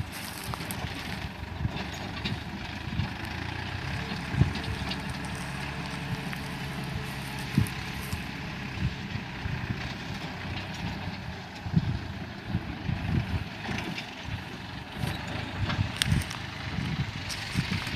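New Holland 49-horsepower, 2,700 cc tractor engine running steadily, with scattered short clunks over the drone.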